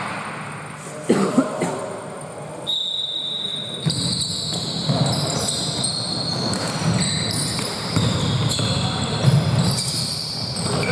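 Basketball game on an indoor court: two sharp ball thuds just after a second in, then sneakers squeaking on the court floor in many high, drawn-out squeals over the steady noise of play.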